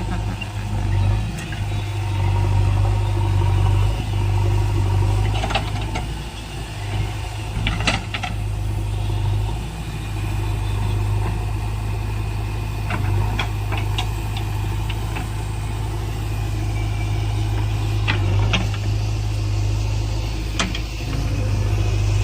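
JCB backhoe loader's diesel engine running steadily, with a few short sharp knocks from the machine at intervals.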